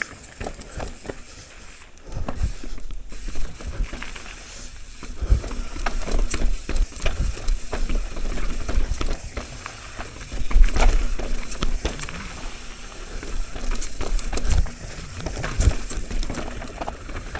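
Mountain bike riding down a rough, rocky and rooty trail: irregular clattering and knocks as the bike and tyres hit rocks and roots, with uneven low rumbles throughout.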